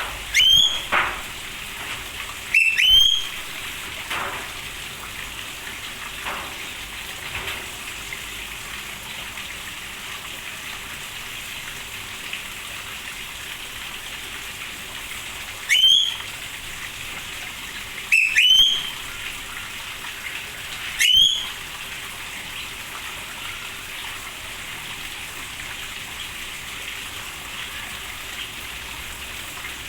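Steady rain falling, with a bird in the aviary giving short, sharply rising whistled calls, often in pairs, several times.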